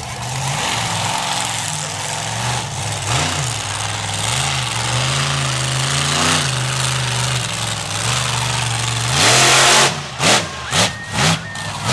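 Monster truck engine running at a steady low rumble with a few slow rises in revs, then revved hard about nine seconds in, followed by three or four quick throttle blips near the end.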